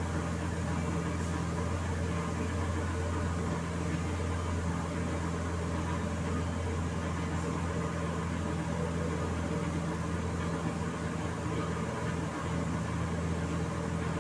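A steady machine hum with an even hiss over it, holding constant throughout.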